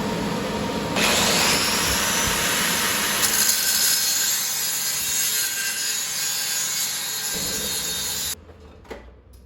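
A grinder grinding down a fresh weld on sheet metal. It bites in about a second in, runs steadily, and cuts off shortly before the end.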